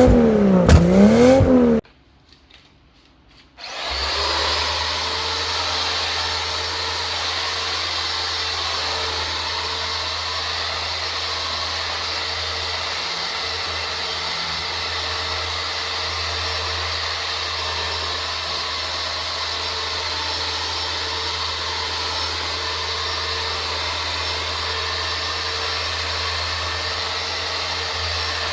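A short sound that rises and falls in pitch twice cuts off suddenly. After a brief quiet, an electric sanding tool starts and runs steadily, a low hum under an even hiss, as body panels are sanded before painting.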